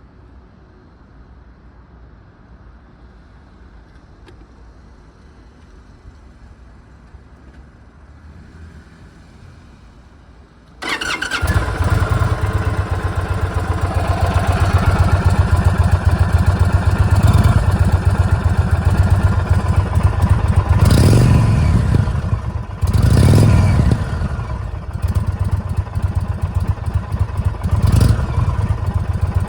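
2022 Indian Chief Dark Horse's Thunderstroke 116 V-twin on its stock exhaust: faint low hum at first, then the engine starts suddenly about eleven seconds in and idles, with three short blips of the throttle in the last ten seconds.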